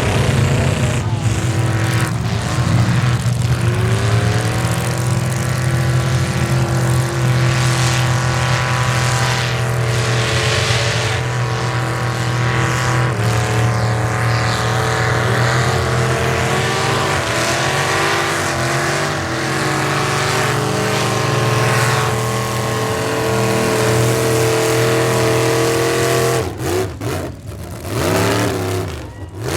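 Square-body Chevrolet pickup's engine running hard at high revs through a mud bog pit. The revs hold steady for most of the time, dip and climb back about two seconds in, and fall and pick up again near the end.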